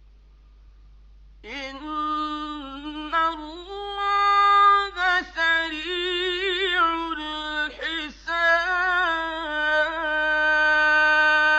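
A male Qur'an reciter's voice chanting a long melismatic phrase in mujawwad style, entering about a second and a half in. It goes in held, ornamented notes with trills, breaks off briefly near the middle, and ends on a long steady note.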